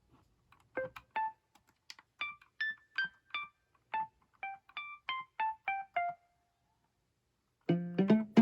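Akai MPK Mini Play MK3 mini keyboard playing a piano-like preset: about a dozen single notes, one at a time, each dying away quickly, in a slow melody. Near the end, louder, fuller notes in a lower register begin.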